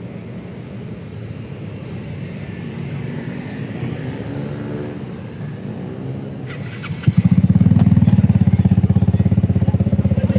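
Motorcycle engines in street traffic: an engine note rising over the first several seconds, then about seven seconds in a motorcycle engine suddenly running loud and close with a fast, even pulse.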